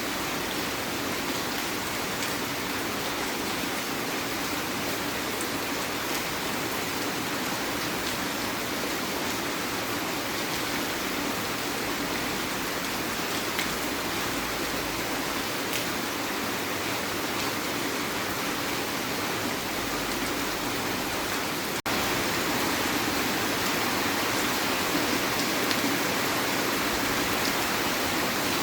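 Heavy rain falling steadily, an even hiss. About two-thirds of the way through it drops out for an instant and comes back slightly louder.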